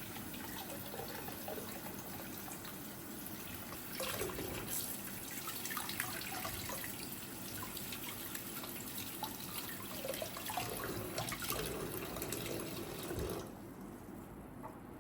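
Water running from a kitchen tap into the sink, splashing louder from about four seconds in, then shut off near the end.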